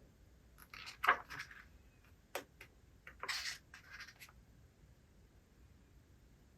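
Paper rustling from a book being handled and its pages turned: a few short, faint rustles with a light tap between them.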